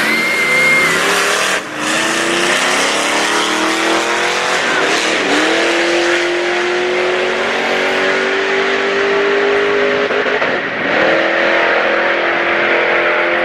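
A car's engine at full throttle accelerating down a drag strip. The engine note climbs in pitch, breaking and resetting at gear changes about five and eleven seconds in.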